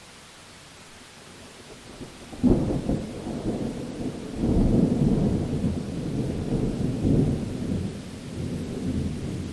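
Rain falling steadily, then about two and a half seconds in a sudden thunderclap breaks in and the thunder rolls on as a deep rumble, swelling again a couple of seconds later and rumbling on to the end.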